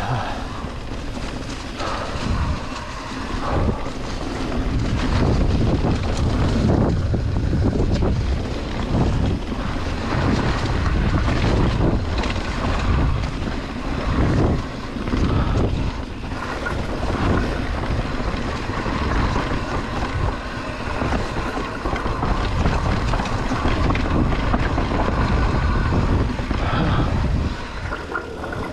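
Wind buffeting the microphone over the rumble and rattle of a mountain bike riding fast down a rough dirt trail, with frequent short knocks from bumps.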